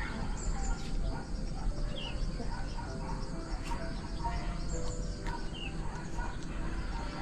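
Outdoor ambience: scattered short bird chirps and whistles over a steady low rumble.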